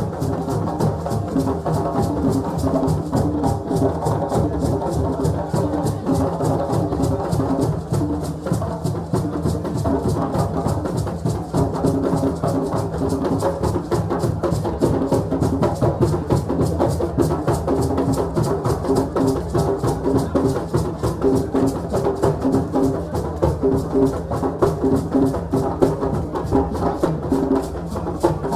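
West African drumming: several drums struck in a fast, dense, continuous rhythm, with pitched sound running under the strokes.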